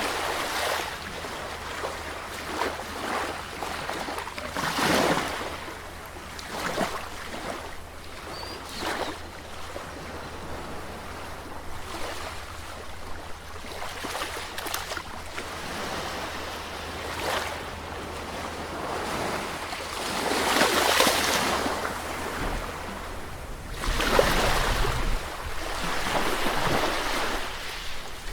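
Sea waves breaking and washing in, the surf swelling and falling every few seconds, with the biggest waves about two-thirds of the way through and again near the end. A steady low rumble runs beneath.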